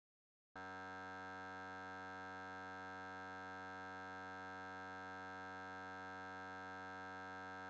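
A steady, unchanging electronic tone that starts abruptly about half a second in, holds at one pitch for about seven seconds, and cuts off sharply. There is dead silence on either side of it.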